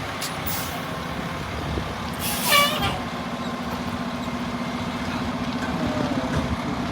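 Fire engine running near by, with a short loud hiss of its air brakes being released about two and a half seconds in, then a steady engine hum.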